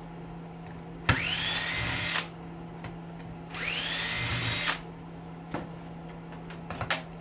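Cordless drill spinning up twice, each run lasting about a second with a whine that rises and then holds steady. A few light clicks follow near the end.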